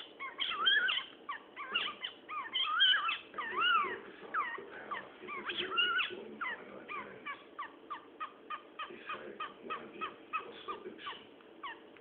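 Cockatiel whistling and chirping: rising and falling whistled notes in the first half, then a quick run of short repeated chirps, about three or four a second, that stops near the end.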